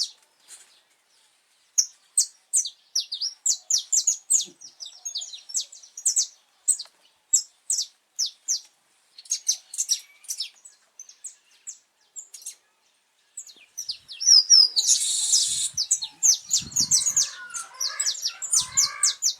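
Saffron finch singing: long runs of quick, sharp, high notes, broken by short pauses. About fifteen seconds in comes a brief, louder, harsh burst of noise.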